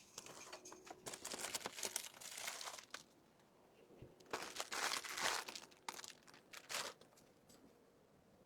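Plastic packaging crinkling and rustling as items are handled and packed, in three stretches of a second or more each.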